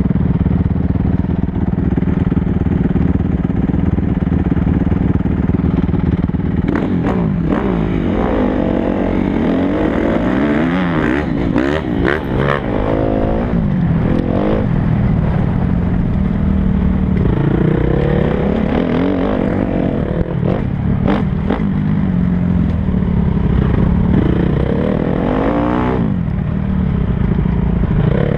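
Motocross bike engines running: a steady drone for the first several seconds, then revving up and down through the gears, with rising and falling pitches that at times overlap. A few sharp clatters sound around the middle.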